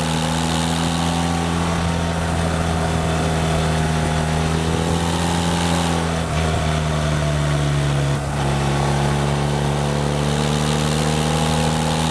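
BMW Rockster's boxer-twin engine running at a steady road speed, heard on the moving motorcycle with wind noise; the engine note shifts in pitch about six seconds in and briefly drops about eight seconds in.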